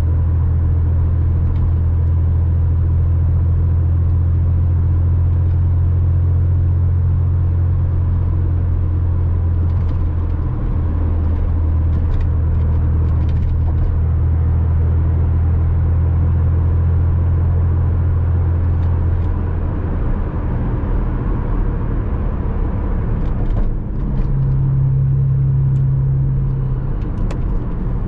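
Porsche Boxster 986 flat-six engine running under way, a steady low drone. After about 19 seconds the note changes, stepping higher for a couple of seconds around 24 seconds in.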